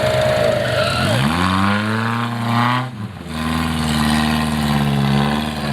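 Off-road 4x4's engine revving hard: it climbs in pitch, drops off briefly about three seconds in, then picks up again and holds at high revs.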